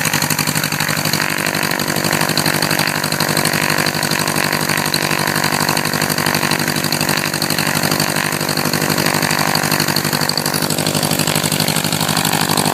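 1967 Cessna 150's Continental O-200 four-cylinder engine and propeller running steadily at low power on the ground.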